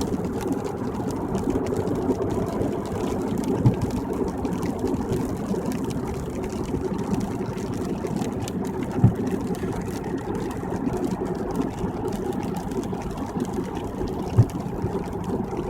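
Steady road and tyre noise of a car driving on a wet highway in the rain, heard from inside the car, with a short low thump about every five seconds.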